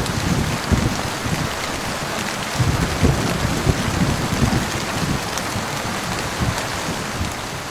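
Heavy rain falling steadily, with irregular dull thuds of large drops striking a nearby surface.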